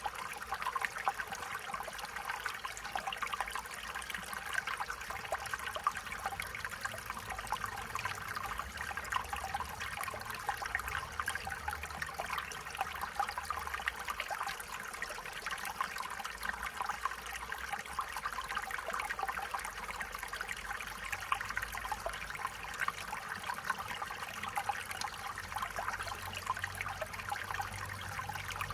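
Stream water trickling and burbling steadily over stones, a continuous bright splashing without pauses.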